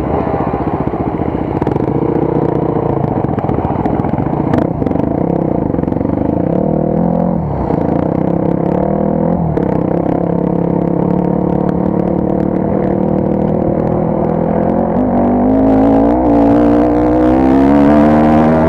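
Motorcycle engine running while riding an unpaved forest road, its pitch steady for most of the time with a couple of short dips, then rising as it accelerates near the end. A sharp knock, with some clatter from the rough surface, comes about four and a half seconds in.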